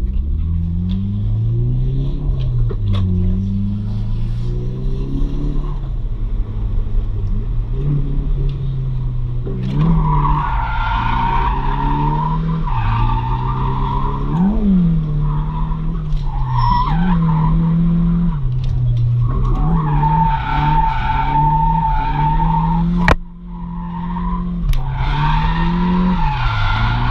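Drift car's engine revving up and down over and over as it slides through corners, with tyres squealing steadily from about ten seconds in. A single sharp click comes about three-quarters of the way through, with a momentary drop in the sound.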